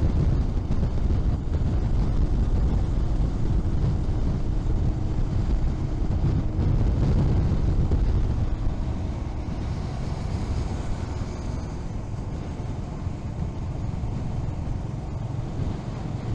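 Honda H'ness CB350's single-cylinder engine running at an easy cruising pace, under a heavy low rumble. It gets somewhat quieter about nine seconds in.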